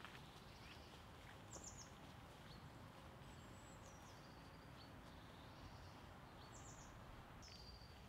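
Faint woodland ambience: a few short, high bird chirps, some in quick runs of three, over a low steady rumble.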